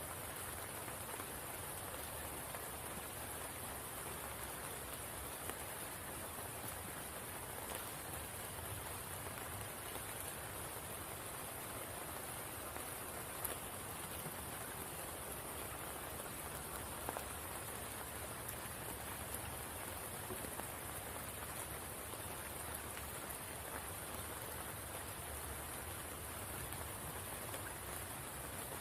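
Steady rain falling on a spring pool, an even hiss with a few louder single drops.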